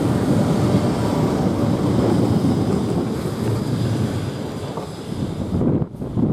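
A train running past on the line, its rumble mixed with wind buffeting the microphone; the higher part of the sound drops away abruptly near the end.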